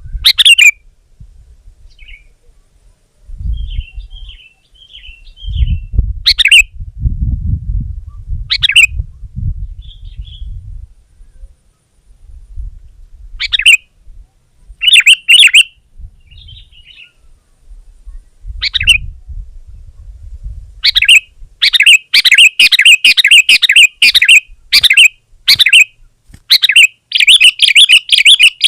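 Sooty-headed bulbuls calling: short, sharp calls spaced several seconds apart, then about two-thirds of the way through a fast, continuous burst of chattering calls, the excited singing used to lure and provoke other bulbuls. A low rumble comes and goes underneath.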